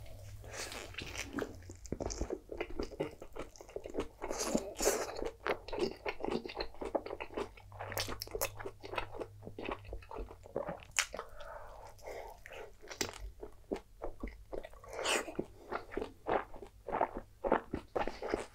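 Close-miked eating: a bite into a soft-tortilla taco, then chewing with a constant run of sharp clicks and wet smacks.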